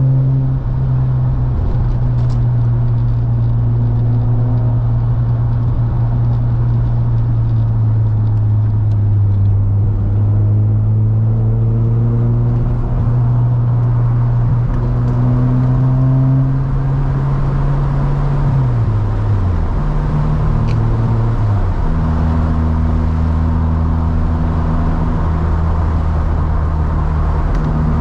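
Mazda FC RX-7's 13B two-rotor rotary engine running at steady cruising revs, its note drifting slowly up and down with the road. About two-thirds of the way through the pitch drops twice and then holds lower.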